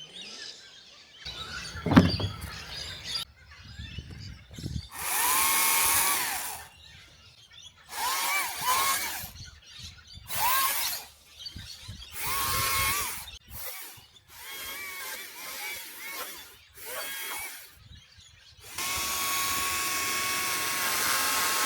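Chainsaw cutting up a felled small tree: the saw is revved in repeated short bursts, its whine rising and then holding as it bites, and near the end it runs steadily at full speed. A sharp thump sounds about two seconds in.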